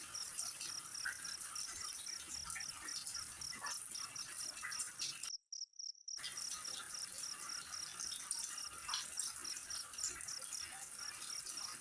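Crickets chirping, an even high-pitched pulsing of about four chirps a second over a steady hiss with faint scattered clicks. All sound cuts out for about a second midway, then resumes.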